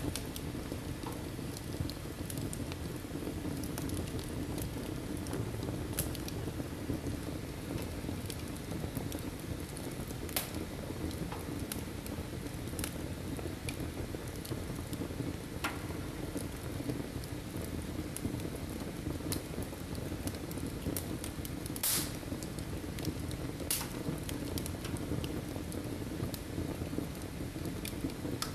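Wood fire burning in a fireplace: a steady low rush of flames with scattered crackles and pops, the loudest about 22 seconds in.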